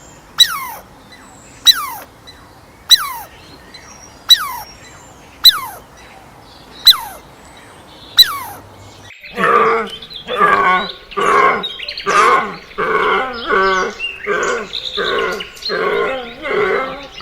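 Animal calls: a short, sharply falling call repeated about every second and a half, then, from about nine seconds in, a different run of harsh, rapid calls about two a second.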